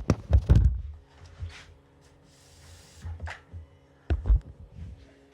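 Plastic parts of a Miele vacuum cleaner's telescopic tube and floor nozzle being handled and fitted: a sharp click, then a cluster of dull knocks, a brief scraping slide in the middle, and more knocks about four seconds in. A faint steady hum sits underneath.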